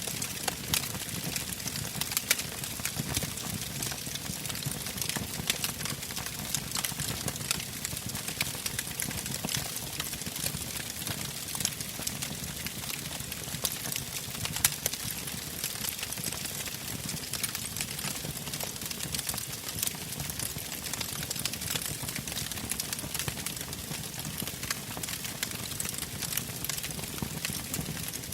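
Wood campfire burning: frequent sharp crackles and pops of the burning logs over a steady hiss of flame, with one louder pop about halfway.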